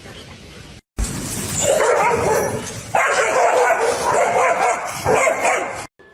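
A dog barking and yelping in a loud, rough run of calls that starts about a second in and cuts off suddenly near the end.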